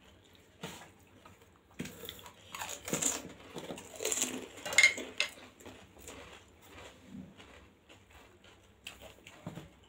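Close-up crunching and chewing of a whole panipuri, the crisp fried puri shell breaking in the mouth. The crunching is loudest from about two to five seconds in, then settles into quieter chewing.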